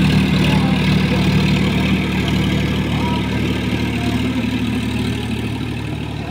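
Sonalika RX 50 4WD tractor's diesel engine running steadily, growing slightly quieter over the last few seconds.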